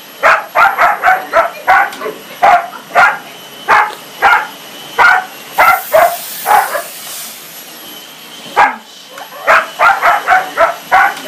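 A dog barking repeatedly in quick runs of short, sharp barks, pausing for a second or two about two-thirds of the way through, then starting again in a faster run near the end.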